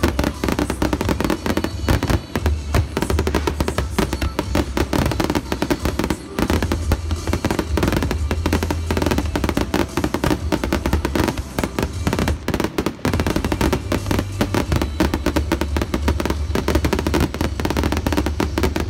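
Fireworks display at full barrage: a rapid, continuous volley of aerial shell bursts, booms and crackling reports, many per second and without a pause.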